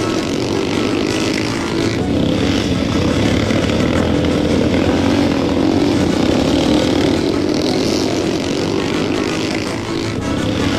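Several 250–350cc motorball motorcycles running together, a loud steady buzz of engines.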